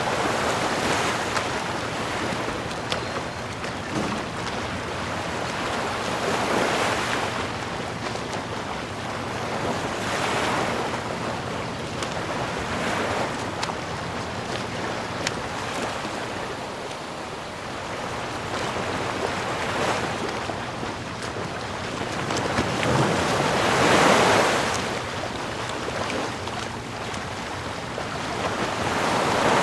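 Ocean surf: waves washing in and drawing back as a steady hiss that swells and fades every few seconds, the loudest wave about four-fifths of the way through.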